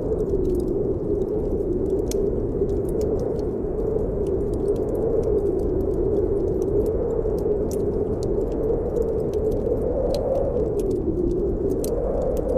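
Snowstorm wind howling, a steady rush that slowly swells and wavers in pitch. Sparse crackles and pops of a wood fire burning in a fireplace sound over it.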